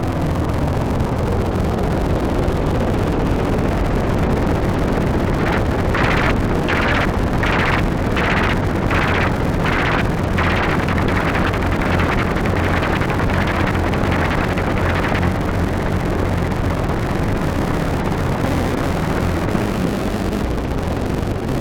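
Noisy ambient techno from Make Noise semi-modular synths: a dense, rumbling noise drone over a steady low hum. Partway through, a run of short filtered-noise pulses enters at about two a second, then smears into a hissing wash and fades back into the drone.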